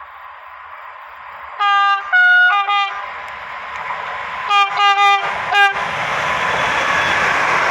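Renfe class 253 (Bombardier Traxx) electric locomotive sounding its horn in two groups of short blasts, the notes changing between blasts, about three seconds apart. Underneath, the rolling noise of the approaching train builds steadily.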